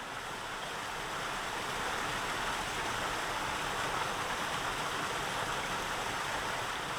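Steady rush of running water, an even hiss like a stream or small waterfall, with no bird calls standing out.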